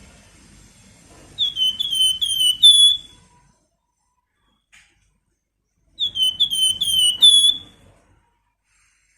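A flamboyan songbird singing two identical whistled phrases a few seconds apart, each a quick run of about five clear, down-slurred notes.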